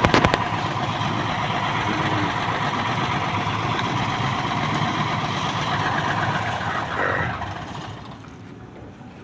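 Truck engine running steadily, then fading away about eight seconds in.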